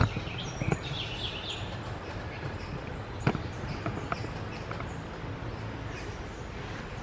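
Birds giving short high chirps over a steady low background rumble, with two sharp clicks, one near the start and one about three seconds in.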